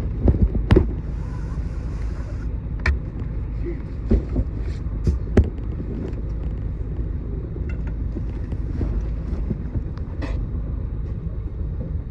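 A route bus running, heard from on board: a steady low rumble from the engine and road, with scattered sharp knocks and rattles from the bodywork.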